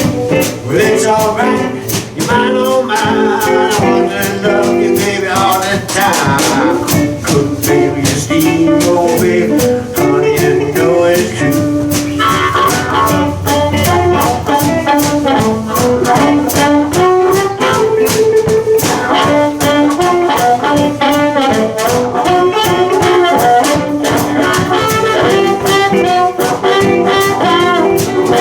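Live blues band playing an instrumental passage: a harmonica lead with bending, sustained notes over electric guitars and a drum kit.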